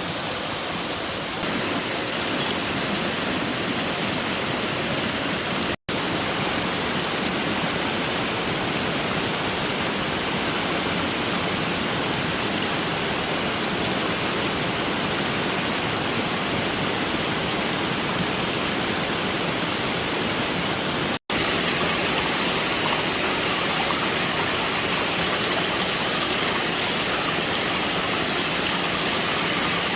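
Steady rushing noise of water, even and unbroken apart from two momentary cut-outs.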